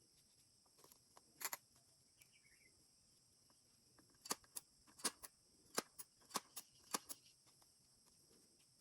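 Light sharp clicks and taps: one double click, then a quick irregular run of about nine more a few seconds later, over a faint steady hiss.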